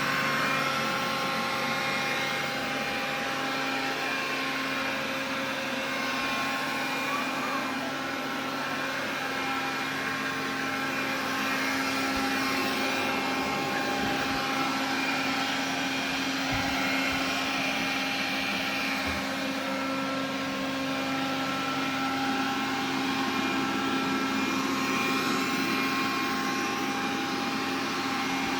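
Xiaomi vacuum cleaner running steadily: airflow rush with a motor whine of several steady tones over it, the unwanted noise the owner is complaining about.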